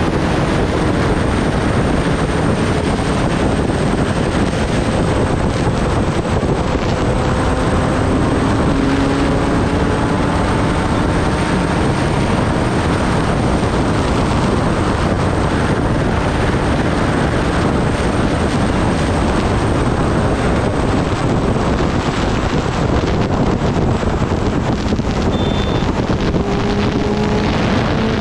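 Kawasaki Ninja ZX-10R's inline-four engine running at a steady cruise, largely buried under loud wind rush on the microphone, its pitch drifting slowly up and down.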